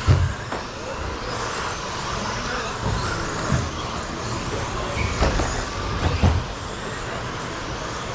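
A pack of 1/10-scale electric stadium trucks with 13.5-turn brushless motors racing on an indoor carpet track: a steady mix of motor whine and tyre noise, with a few short thumps spread through.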